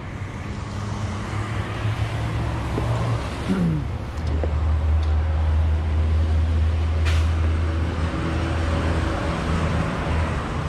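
Street traffic: a motor vehicle's engine running with a low steady hum that grows stronger about four seconds in.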